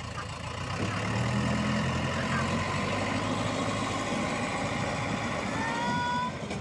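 Heavy diesel engine running, growing louder about a second in and holding steady, with a short rising high whine near the end.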